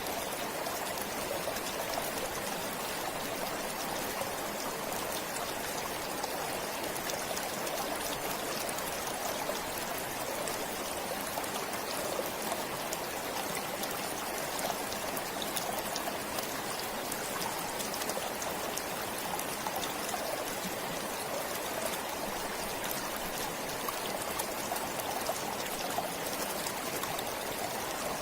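A stream of water flowing steadily, with an even rushing and trickling that does not change.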